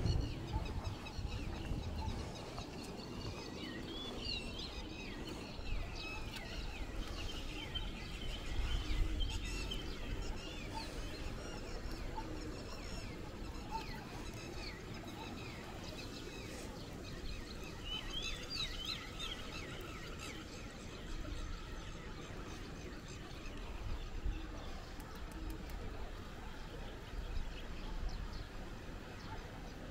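Birds chirping outdoors: many short, high, quick calls scattered throughout, over a steady background hiss with low rumbles now and then.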